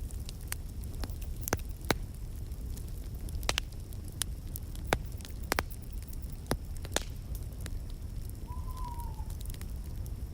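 Wood fire crackling, with scattered sharp pops over a steady low rumble. Near the end there is one short, faint whistle-like tone that falls slightly.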